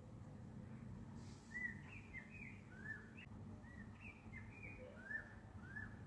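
Small birds chirping: a run of short, quick up-and-down notes starting about a second and a half in and going on to the end, over a faint low background rumble.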